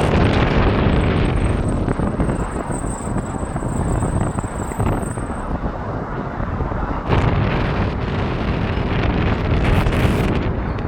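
Jet aircraft engine roar with a thin high whine that stops about five seconds in, mixed with wind buffeting the microphone, which surges in gusts about seven and ten seconds in.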